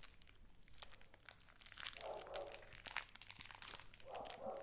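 Plastic cereal-bar wrapper crinkling in the hands as it is opened, a quiet run of crackles that thickens about two seconds in and again near the end.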